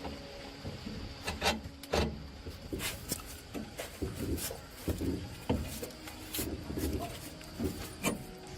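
Irregular clicks, knocks and scraping from hand work on parts, at an uneven pace with no steady rhythm.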